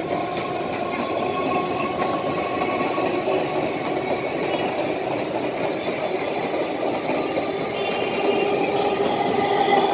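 Electric suburban local train running past the platform: a steady rumble of wheels on rails with a few held humming tones over it, growing slightly louder near the end.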